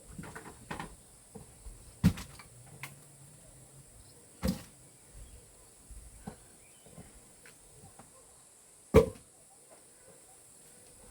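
Pieces of firewood knocking and clunking as they are handled, a few sharp knocks standing out about two, four and a half and nine seconds in, among smaller clicks. A steady high hiss of insects runs behind.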